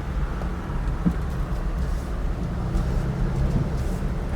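2010 Jeep Wrangler Unlimited driving along town roads: a steady low rumble of engine and road noise.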